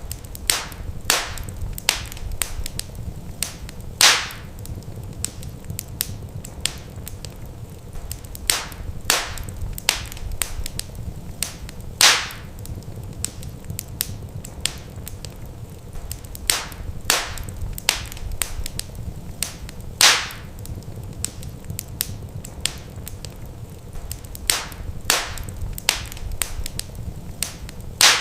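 Wood fire crackling in a fireplace: a steady stream of small, sharp snaps, with a louder pop about every eight seconds, over a low steady rumble.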